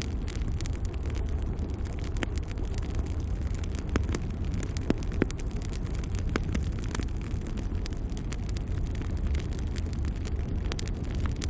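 Wood fire burning in a fireplace: a steady low rush of flame with scattered crackling of the logs, and a few sharper pops near the middle.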